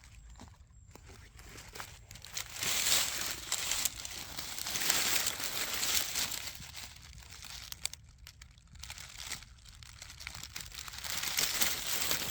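Dry leaf litter and undergrowth rustling and crunching underfoot, in uneven surges with short quiet gaps between.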